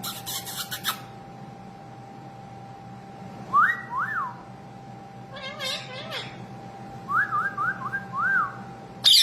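Indian ringneck parrot whistling: two rising-and-falling whistles about midway, then a run of four quick ones, between short bursts of high chattering calls.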